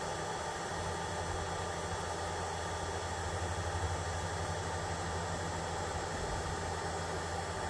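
Heat gun running steadily with a low, even motor hum and blowing air while it shrinks heat-shrink tubing over a crimped jumper-cable connector.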